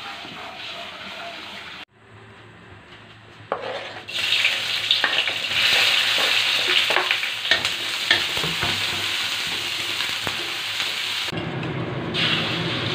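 Sliced onion and red chilies sizzling in hot oil in a wok as they are stir-fried, with a wooden spatula scraping and knocking against the pan. After a quieter opening, the sizzle comes in suddenly and loud about four seconds in and keeps going.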